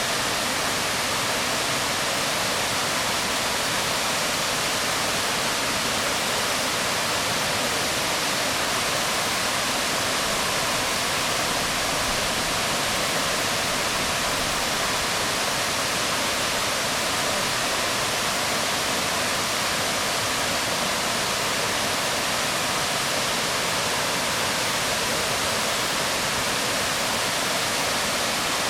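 Waterfall falling onto rocks: a steady, unbroken rush of water.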